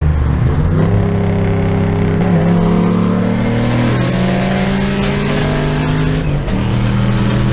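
Car engine running hard at high revs, its pitch holding steady and shifting in a few steps.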